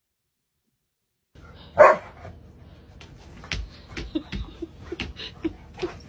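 Silence, then a dog barks: one loud bark about two seconds in, followed by a run of shorter, quieter barks roughly every half second, mixed with light clicks.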